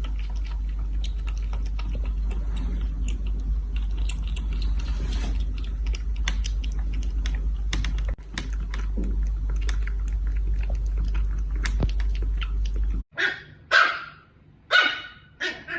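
A steady low hum with scattered clicks that cuts off suddenly, followed near the end by three loud, short calls from a small pet animal.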